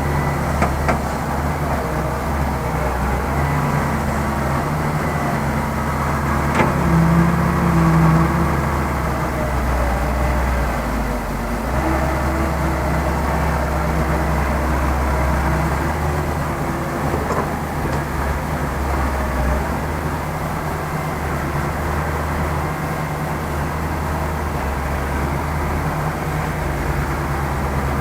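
Heavy diesel engine of earthmoving machinery running steadily, with a couple of sharp metallic clanks and a brief swell in engine level around seven to eight seconds in.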